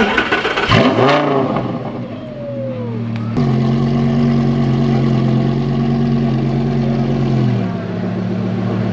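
A car engine starts abruptly about three seconds in and settles into a steady fast idle, stepping down slightly in pitch near the end. Before it, crowd voices and a short rev.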